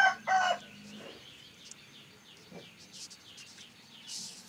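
A rooster's crow ends about half a second in. After it, small birds chirp over and over in short, falling chirps, over a faint steady hum.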